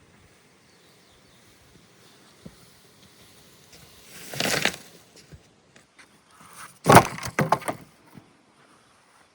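Wood being broken by hand: a crunching, splintering burst about four seconds in, then a sharp crack near seven seconds followed by a few smaller cracks.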